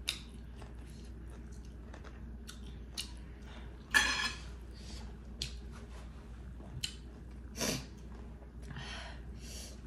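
Close-miked eating sounds: chewing, lip smacks and small clicks of mouths and fingers working rice and curry by hand. A sharp, louder burst comes about four seconds in, with a few smaller ones later.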